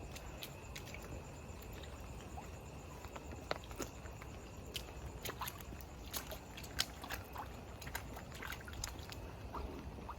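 Footsteps in rain boots on wet ground, with irregular small splashes and ticks, over a steady low rumble.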